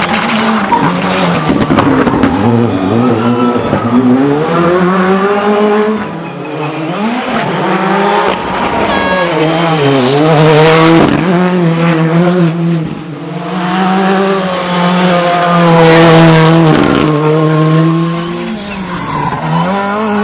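Rally car engine revving hard, its pitch climbing through the gears and falling back several times as the driver shifts and lifts for corners.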